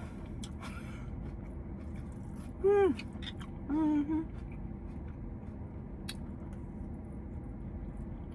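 A woman chewing a mouthful of salad, with two short pleased "mmm" hums about three and four seconds in, the first rising and falling in pitch. Faint clicks come and go over a steady low background hum.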